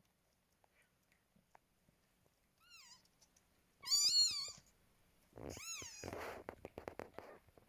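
Newborn kittens mewing: three high, wavering cries, the middle one loudest, followed by a rougher, noisier stretch of sound.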